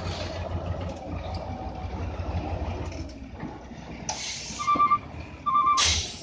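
Truck engine running low and steady, then two loud air-brake hisses about 4 and 6 seconds in, with short electronic reversing beeps between them.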